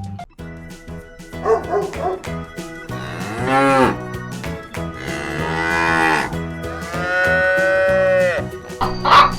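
Cows mooing: three long moos, one after another, over steady background music, with a short loud sound near the end.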